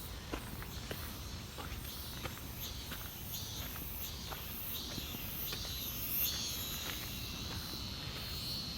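Footsteps on a mountain trail, a soft step every half second or so. Insects chirp and buzz behind them, growing stronger from about a third of the way in, over a steady low rumble.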